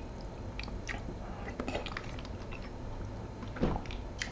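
Eating sounds: small clicks and mouth noises of chewing, with one louder knock about three and a half seconds in.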